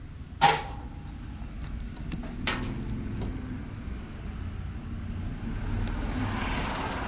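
A loud sharp knock about half a second in and a lighter one about two seconds later, over a steady low rumble.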